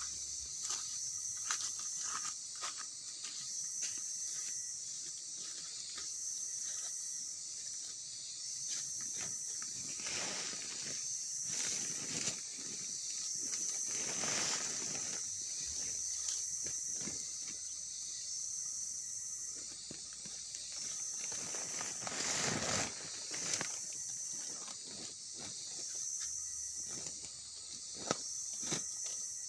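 Outdoor ambience: a steady high hiss with scattered clicks and rustling, and a few louder swishes in the middle.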